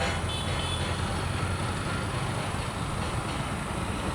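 Diesel-hauled freight train running, a steady low rumble.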